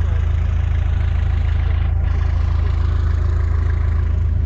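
A vehicle engine idling steadily with a deep, even hum.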